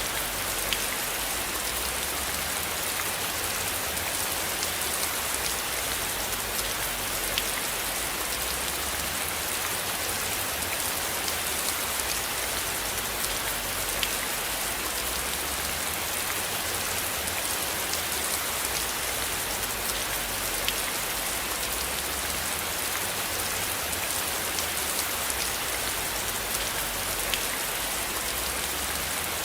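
Steady rain falling, an even hiss with scattered sharper drop ticks and a low rumble underneath.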